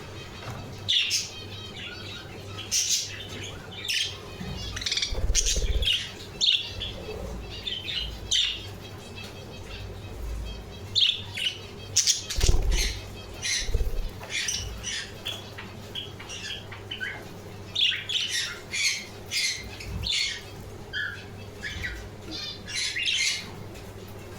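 Budgerigars chirping and chattering: many short, high calls overlapping one after another, with a few low thumps underneath.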